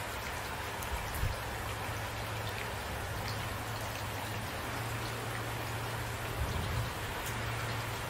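Steady rain falling, with individual drops pattering on a surface. Two brief low thumps stand out, about a second in and again near the end.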